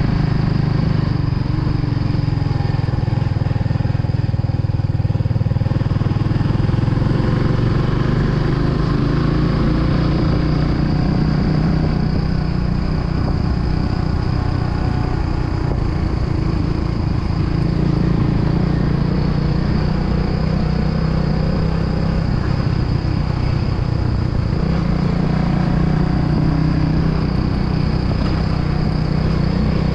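Kawasaki W175's air-cooled single-cylinder engine running steadily as the motorcycle is ridden downhill, with a steady engine note and no sharp revving.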